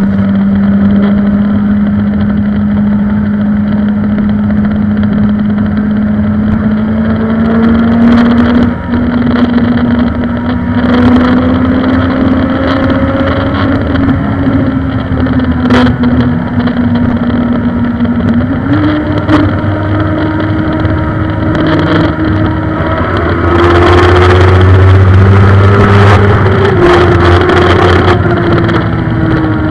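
Suzuki GSX-R 1000 inline-four engine running hard under wind rush. Its pitch climbs slowly, jumps up sharply about two-thirds of the way through, rises further, then eases off near the end. A few short clicks sound, and the wind rush grows louder in the last several seconds.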